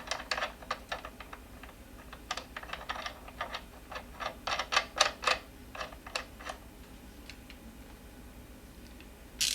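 Socket ratchet clicking in quick, irregular runs as the wheel's axle nut is worked with a 21 mm socket. The clicking thins out after about six and a half seconds, and a single sharper click comes near the end.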